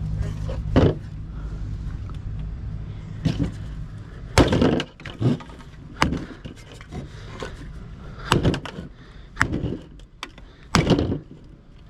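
Scrap being handled and broken down: a series of about eight separate clanks and thuds, irregularly spaced a second or so apart. A low engine hum runs under the first two seconds and fades out.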